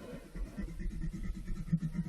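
Pen scratching across paper in quick, irregular strokes.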